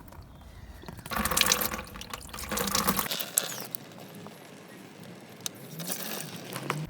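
Engine coolant running out of a radiator hose as it is wiggled off, splashing into a bucket below, louder in spurts about a second in and again around three seconds.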